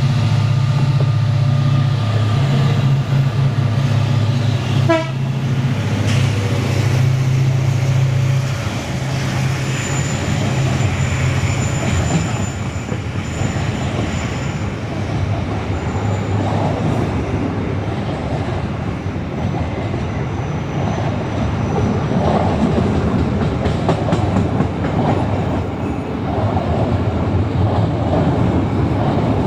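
Diesel locomotive running with a loud, steady low drone, a short rising tone about five seconds in, then the train's rumble and wheel clatter on the rails taking over from about twelve seconds on.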